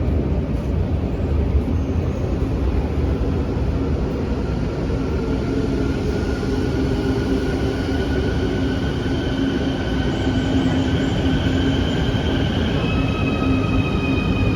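Quito Metro train running, with a steady low rumble and an electric motor whine that starts about four seconds in and slowly rises in pitch, changing to a new set of tones near the end.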